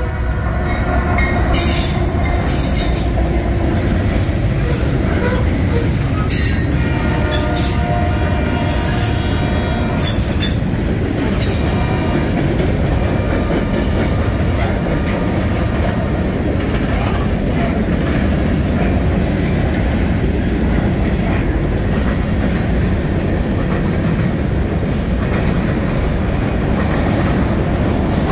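Freight train passing close by: a steady rumble of steel wheels on the rails, with several short, high wheel squeals during the first dozen seconds.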